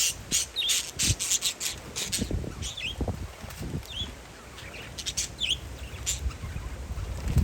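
Parakeets giving short, scattered chirps, mixed with sharp clicks and scratches, over a gusty low rumble of wind on the microphone.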